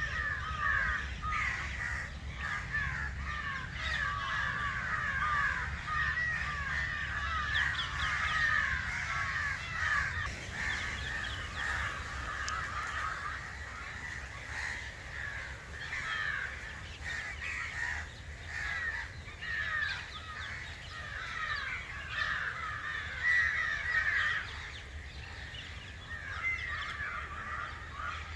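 A flock of crows cawing continuously, many short calls overlapping into a dense chorus that thins briefly a few times.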